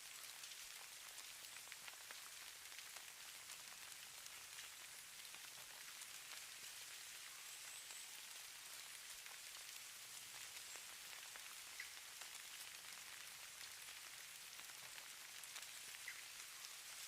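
Falling snow: a faint, steady hiss of fine pattering with many tiny ticks, sitting high in pitch and never letting up.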